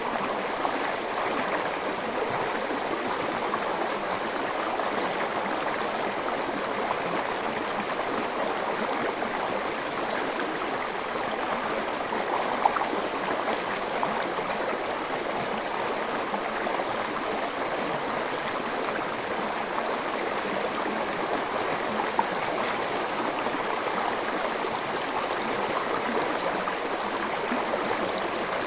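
Small forest stream flowing steadily over rocks, an even rushing and gurgling of water.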